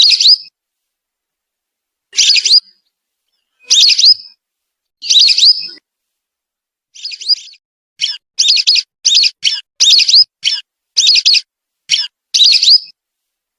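Whistling duck (belibis) calls from a lure recording: short, high whistled calls with rising notes. A few calls come a second or two apart, then a quick run of about ten calls follows from about eight seconds in.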